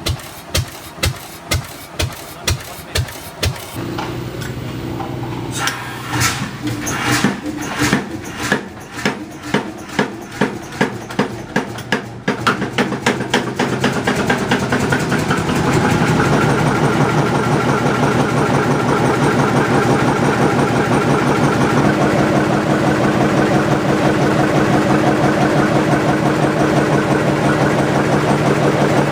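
Old Fairbanks Morse engine firing with slow, evenly spaced exhaust beats about two a second. Partway through, the beats quicken and settle into a fast, steady run as the engine comes up to speed after a cold start.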